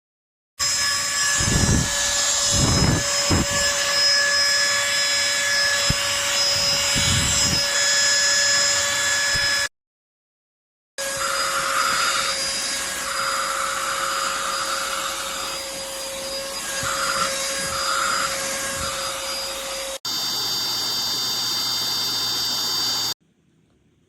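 SIMWAL cordless handheld vacuum's small motor running with a steady whine, in three stretches that start and stop abruptly, with a few low bumps in the first stretch and a changed tone in the last.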